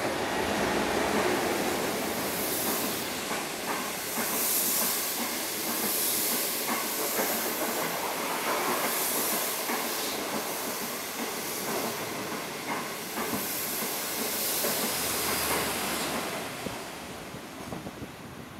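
Non-stop passenger train hauled by a DF11 diesel locomotive running through a station: a loud steady rush of wheels on rail, with a high hiss that swells about every second and a half as the coaches go by. It dies away near the end.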